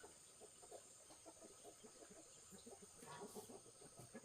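Chickens clucking faintly, a continual run of short, soft clucks.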